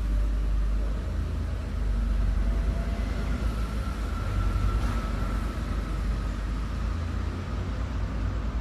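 Steady low rumble of road traffic, with a faint thin high tone through the middle.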